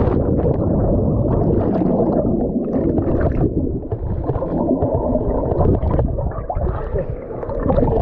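Loud, muffled rushing and churning of water, with scattered splashes.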